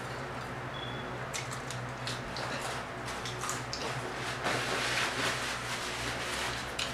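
Close-miked wet chewing and mouth smacks of someone eating fried croaker fish, with scattered small clicks. A faint steady hum runs underneath.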